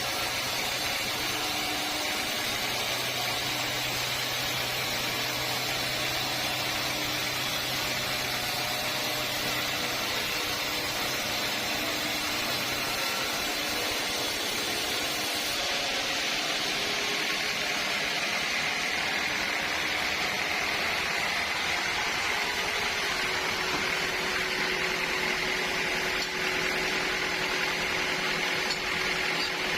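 Sawmill machinery running steadily, a continuous mechanical noise with faint steady tones. The pitch and character of the noise shift about halfway through.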